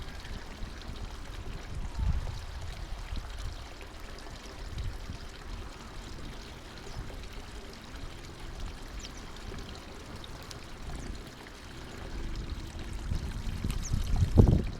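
Water trickling and pouring steadily, as from a small garden water feature, with low rumbling swells about two seconds in and again just before the end.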